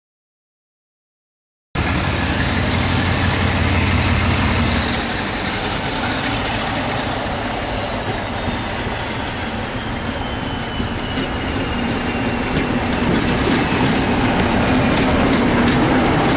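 Silence, then about two seconds in the sound of a diesel-hauled passenger train passing close by: the locomotive's engine with a strong low hum for the first few seconds, then the steady rumble of the coaches rolling past.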